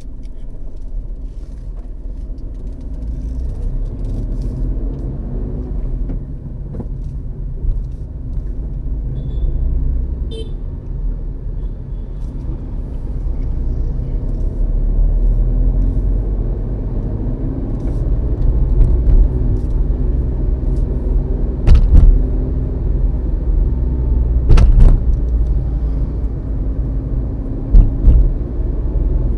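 Car driving on a road: a steady low rumble of engine and road noise. A short high-pitched tone comes about ten seconds in, and three sharp thumps come in the last third, the loudest sounds, typical of the car jolting over bumps.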